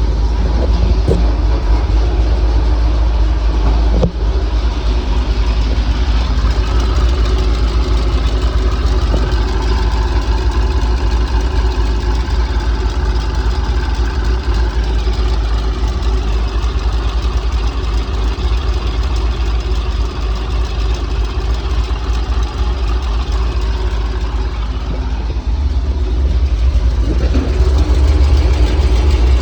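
Car engine idling steadily with a tick, which the owner can't place as either a lifter tick or an exhaust leak.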